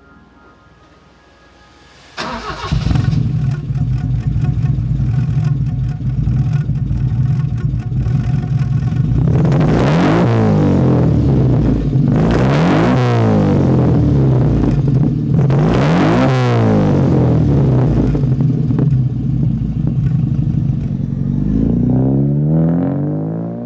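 A car engine breathing through a custom-made one-off exhaust starts about two seconds in and settles into a steady idle. It is then revved several times, the pitch rising and falling with each blip, and drops off near the end.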